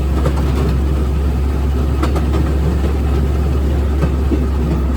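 Railroad speeder riding along the track: a steady low rumble of its motor and wheels, with a few faint clicks from the rails.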